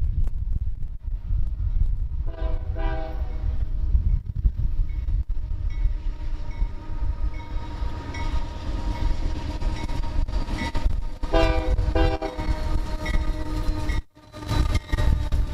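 Union Pacific diesel freight locomotive passing with its engine and wheels rumbling. Its air horn gives two short blasts about two seconds in and two more about nine seconds later. The sound briefly drops out near the end.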